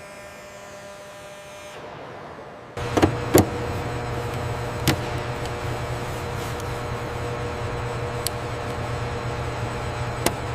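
Steady mechanical hum of workshop machinery during airframe assembly. A louder hum comes in abruptly about three seconds in, with a few sharp metallic clicks and knocks scattered through it.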